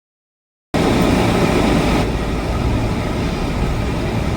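Steady low vehicle rumble and road noise inside a moving car's cabin, starting sharply after a brief silence.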